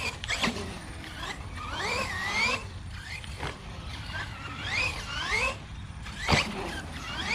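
High-geared electric motor and gear train of a 1/10-scale RC monster truck whining, the pitch rising again and again with each burst of throttle. A sharp thump comes a little past six seconds in.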